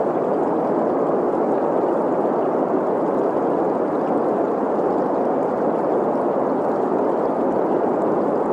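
Steady green noise, an even rushing hiss centred in the middle of the range, blended with the sound of a flowing stream. It keeps an unchanging level throughout.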